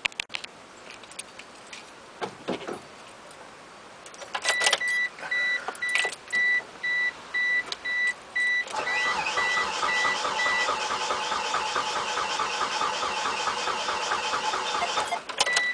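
The key clicks in the ignition and the warning chime beeps about twice a second. Then the 4G63 turbo engine of a Mitsubishi Eclipse GSX is started with its fuel pump unplugged, so that it burns off the fuel left in the lines. It cranks and runs for about six seconds with an even rhythm, then cuts off suddenly.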